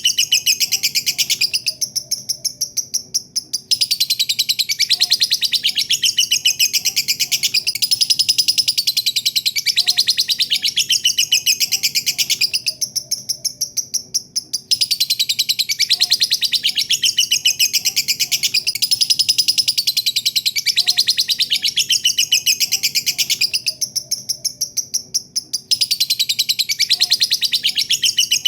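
Lovebird's 'ngekek': a long, unbroken run of rapid, high-pitched chattering notes. Roughly every eleven seconds the chatter tails off in level for a second or two, then comes back at full strength.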